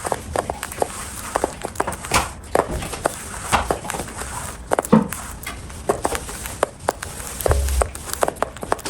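Cockatiel eating, its beak crunching and cracking food in a rapid, irregular run of small clicks, with a soft low bump about three-quarters through.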